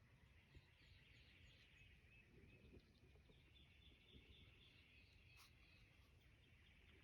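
Near silence of the woods: faint, distant songbirds chirping over a low background rumble, with a single sharp click about five seconds in.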